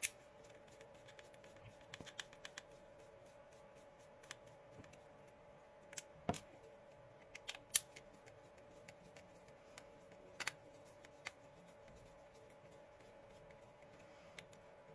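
Faint, scattered clicks and taps of a small screwdriver and hands handling an electric shaver's plastic housing while three screws are taken out of it, a few sharp ticks several seconds apart.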